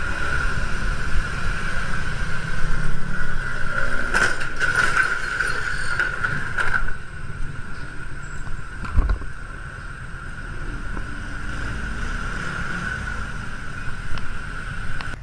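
Car driving, heard through a dashcam: road and engine rumble with a steady high tone, and a few sharp knocks about four to five seconds in and again about nine seconds in. The rumble drops somewhat after about seven seconds.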